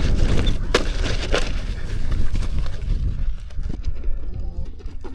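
Heavy rumble of wind buffeting the microphone, with scattered sharp cracks and knocks, that eases off about three seconds in.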